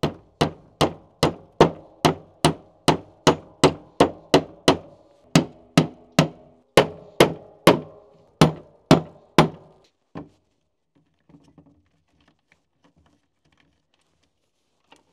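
Hammer driving nails into a plane-wood board, a steady run of ringing blows about two and a half a second that stops about ten seconds in, followed by faint handling sounds.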